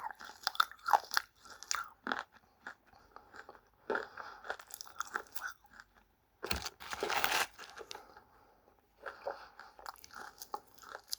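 Close-up crunching as pieces of dry clay (multani mitti, Fuller's earth) are bitten and chewed, in irregular crisp crunches. The longest, loudest crunch comes about six and a half seconds in.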